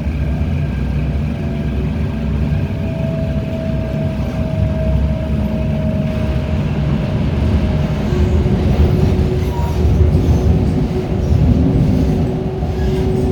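Hyundai Rotem-built MTR K-Train electric multiple unit running at speed: a steady low rumble of wheels on rail with a faint whine that slowly drops in pitch, giving way about eight seconds in to a lower steady hum.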